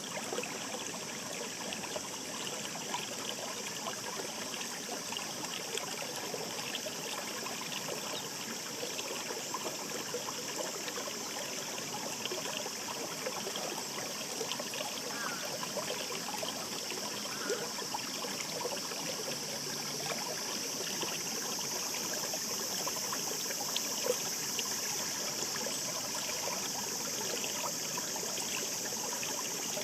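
Shallow mountain stream babbling steadily: a continuous rush of water, busy with small irregular splashes and trickles.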